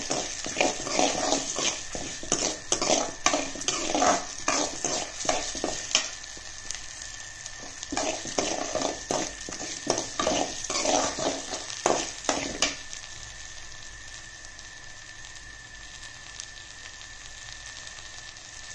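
Urad dal, mustard seeds, dried red chillies, shallots and garlic sizzling in sesame oil in a metal kadai as they brown, with a spoon scraping and stirring them against the pan. The stirring strokes stop about two-thirds of the way through, leaving a steady sizzle.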